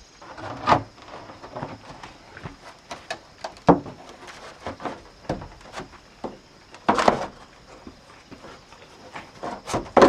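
Irregular knocks and clatter of wood being handled and struck, with louder thuds about a second in, near four seconds, around seven seconds and near the end.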